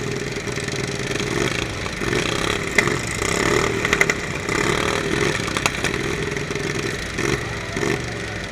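Riding lawn mower engines running and revving, with a few sharp knocks about three, four and five and a half seconds in.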